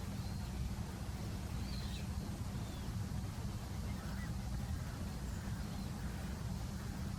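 Steady low rumble of outdoor ambience, with a few faint, short high chirps from small birds scattered through it.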